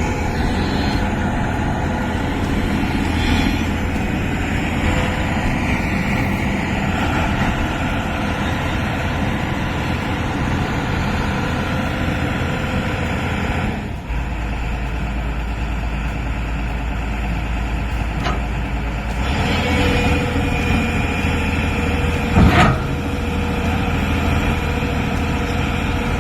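Diesel excavator engines running under load, a steady heavy hum that changes abruptly twice partway through, with one loud knock near the end.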